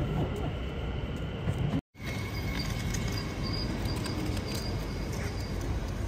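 Passenger train running: a steady low rumble with faint high whining tones and occasional light clicks, broken by a brief drop-out about two seconds in.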